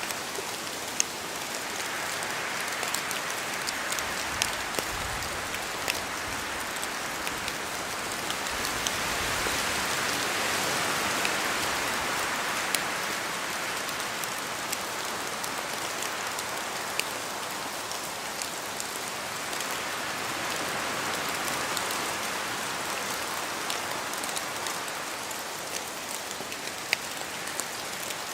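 Rain falling in a spruce forest: a steady patter with scattered sharp drops falling from the trees. Wind swells through the branches twice, about ten and twenty seconds in.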